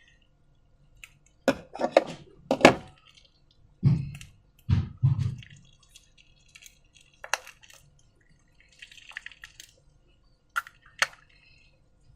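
Slime being handled and squished by hand: a quick run of sticky, wet clicks and smacks, then two or three low squelches, with a few single clicks after.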